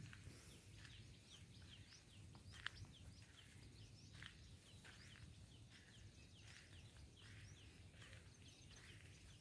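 Faint bird calls: short, quick falling chirps repeated about once a second, the clearest a little under three seconds in, over a low steady rumble.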